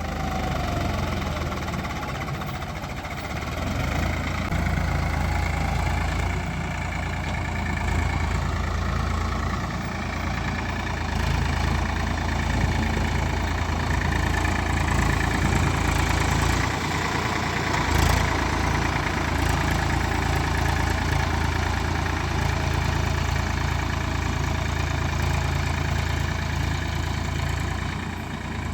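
Swaraj 4wd tractor diesel engines running, the engine note rising and falling as one tractor pulls the other, which is stuck. A single sharp knock is heard partway through.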